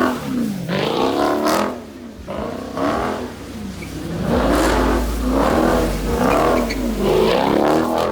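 Car engine revving hard over and over, its pitch climbing and falling about six times in a row.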